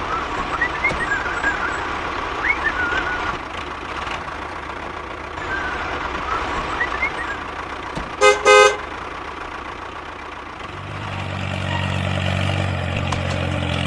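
A vehicle horn toots twice in quick succession about eight seconds in, over steady background noise with a few faint high chirps. From about eleven seconds an engine starts running with a low, steady hum.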